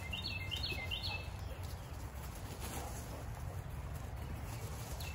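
Outdoor ambience with a steady low rumble, and a songbird singing a quick phrase of short, high chirps in the first second.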